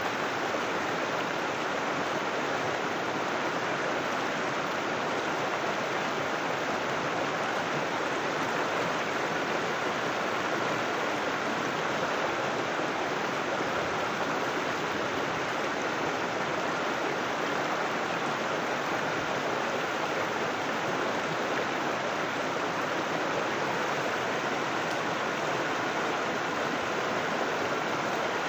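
River water rushing and splashing over rocks, a steady, unbroken flow.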